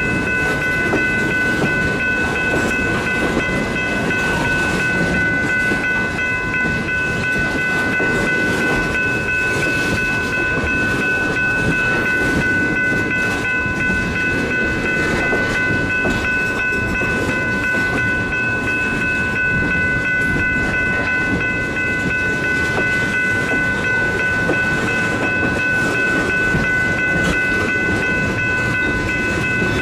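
Train rolling past with a steady rumble from the wheels and cars. A steady high-pitched whine made of several tones sits over the rumble.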